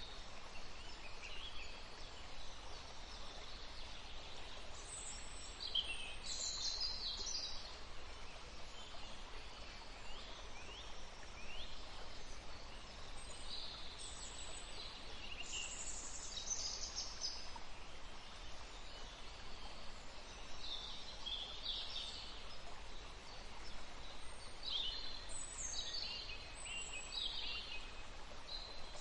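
Several songbirds chirping and singing in short, high-pitched phrases that come in clusters every few seconds, over a steady background hiss.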